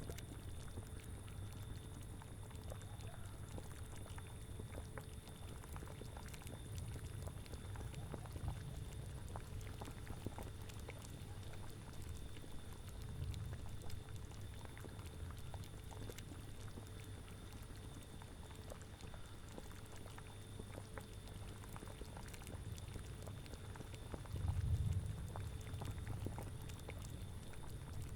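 A cauldron boiling: a steady run of small bubbling pops over a low rumble, which swells louder about 25 seconds in.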